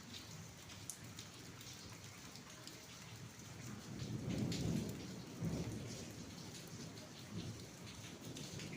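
Steady rain falling, with a low rumble of thunder swelling a little before halfway through and dying away.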